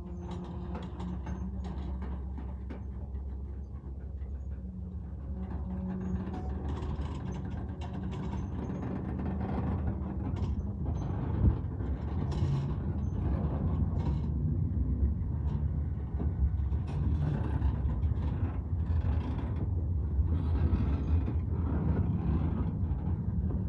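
Covered hopper cars of a freight train rolling slowly past, with wheels clicking and clanking on the rails and metal creaking, over a steady low drone. The clatter grows louder about ten seconds in, with one sharp clank soon after.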